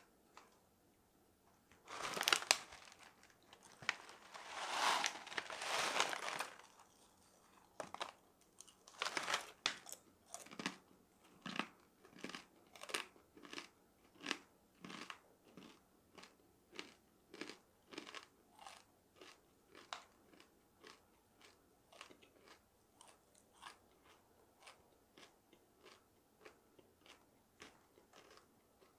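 A person crunching and chewing dried food. There are a few loud, crunchy bites in the first ten seconds, then steady chewing at about one and a half chews a second that slowly gets softer.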